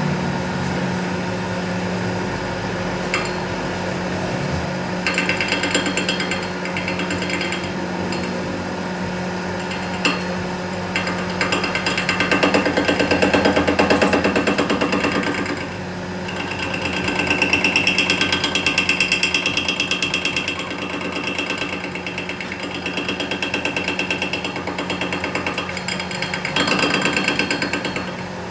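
A power tool working metal with a fast, continuous hammering rattle, over a steady machine hum. It swells louder twice along the way.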